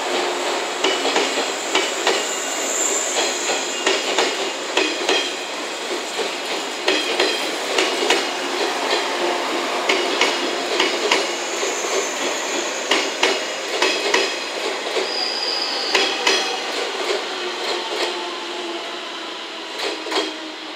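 Seven-car JR West 115 series electric train rolling past, its wheels clacking sharply over rail joints, with a few brief high wheel squeals. The sound falls away near the end as the last car goes by.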